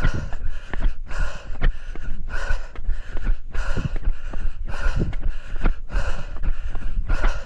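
Heavy, rapid open-mouth breathing of a runner labouring up a steep climb, about one and a half hard breaths a second. Footsteps on the trail and wind rumble on the microphone are heard beneath it.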